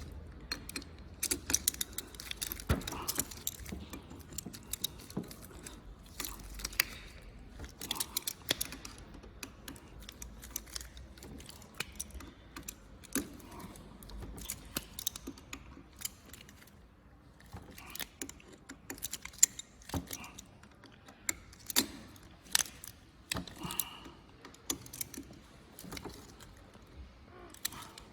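Irregular metallic clinks and clicks of a hand wrench on the bolts of a motorcycle handlebar riser clamp as they are tightened.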